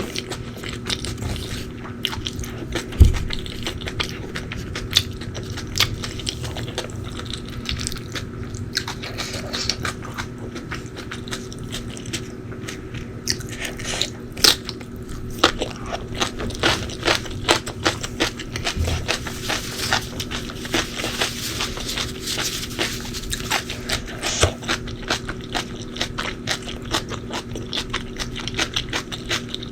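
Close-up eating sounds: biting and chewing crunchy food, with dense irregular crisp crackles and clicks. There is a low thump about three seconds in and a faint steady hum underneath.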